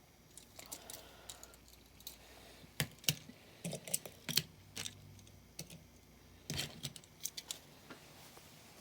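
Irregular light clicks and crinkles of a blister-carded diecast car's plastic packaging being handled, with a cluster of louder clicks around the middle and a few more near the end.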